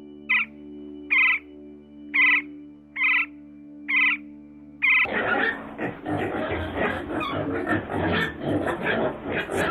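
An animal calling: six short, high yips, evenly spaced a little under a second apart, then about five seconds of rapid, dense, noisy calling.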